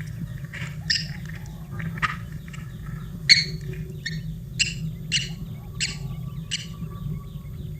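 Newly hatched baby birds chirping: a series of about eight short, harsh chirps, coming roughly every half second to a second, the loudest a little past the middle, over a steady low hum.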